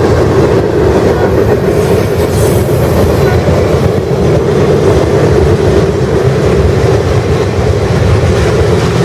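Train rolling past close by: the steady, loud rumble of its cars going by on the rails.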